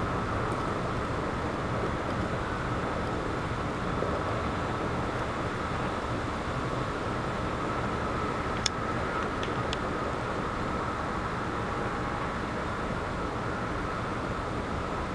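Wind blowing steadily in a low, even rumble, with a faint steady whine above it and a few sharp clicks about nine seconds in.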